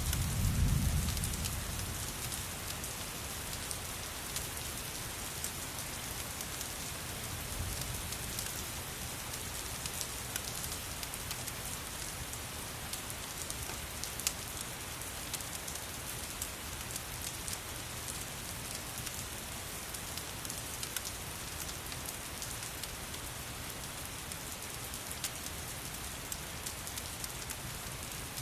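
Steady rain falling, a continuous hiss dotted with frequent sharp crackles and ticks, as from a wood fire burning alongside. A brief low rumble swells about a second in.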